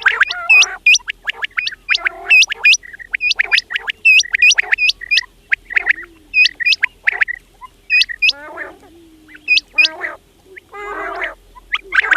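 Quail calling: a rapid run of short, sharp hooked notes, several a second, mixed with lower gurgling, rattling churrs.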